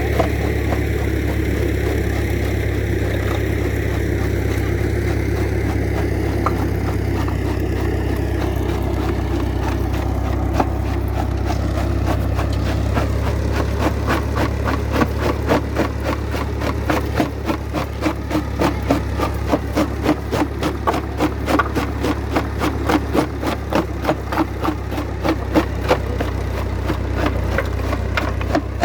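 Old tractor engine running steadily, belt-driving a rock crusher. From about ten seconds in, a rapid clatter of knocks joins it and grows louder: lava rock being broken up in the crusher.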